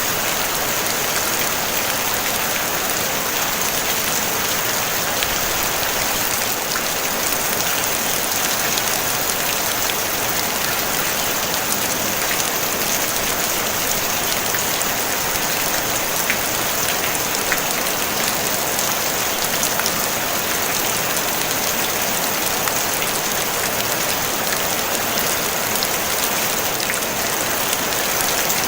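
Steady rain falling on a tin roof: an even hiss with scattered individual drop ticks, and no thunder.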